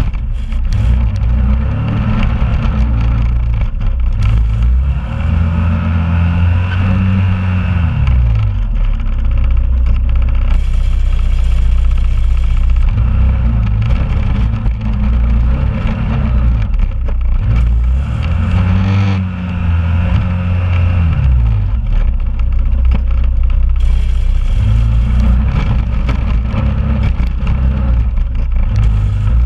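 2001 Honda Rubicon ATV's single-cylinder engine running while plowing snow, its pitch rising and falling several times as it revs up and eases off.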